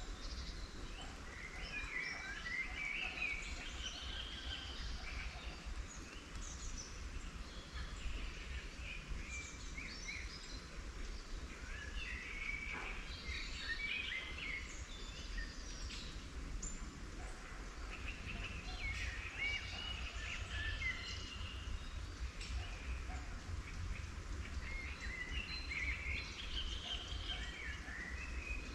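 Songbirds singing in short twittering phrases that come and go every few seconds, over a steady low rumble.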